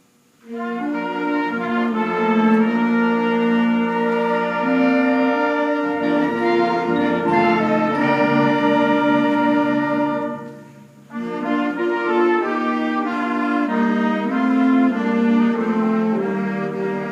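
School concert band playing held chords. It comes in sharply about half a second in, breaks off for a moment near the middle, then carries on.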